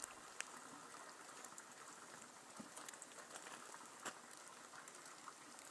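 Faint patter of light rain, with scattered sharper drip ticks now and then.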